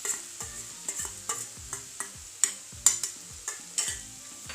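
A spoon stirring and scraping a pan of onion, garlic and green chilli paste frying in hot oil, clicking against the pan about three times a second over a steady sizzle, with two sharper knocks about halfway through.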